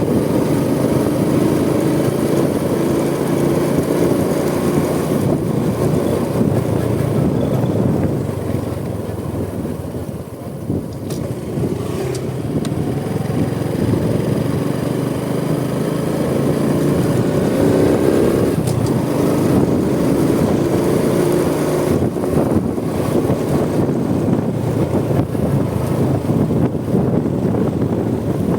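Honda Supra X 125 motorcycle's single-cylinder four-stroke engine running steadily while riding. It eases off about eight seconds in, then builds up again over the next several seconds.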